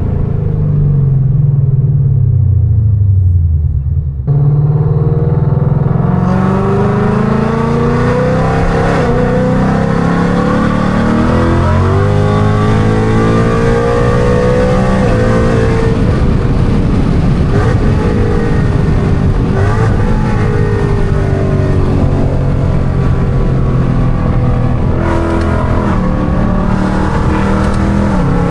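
2019 Mustang GT's 5.0 V8 with catless headers and a straight-piped exhaust, revving hard. Its pitch falls for the first few seconds, cuts out briefly about four seconds in, then climbs and swings up and down with the throttle.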